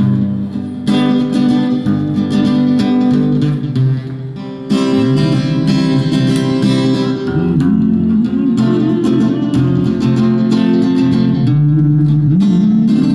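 Acoustic guitar strummed and picked in an instrumental passage between sung verses of a song.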